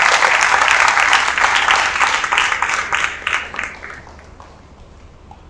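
An audience applauding. The clapping thins out and dies away about four seconds in.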